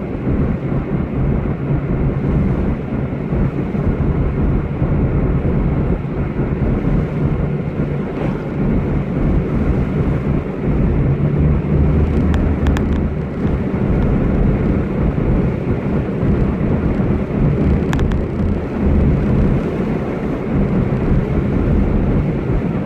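Car driving along: a steady engine hum with road noise, with two brief clicks about halfway through and again later.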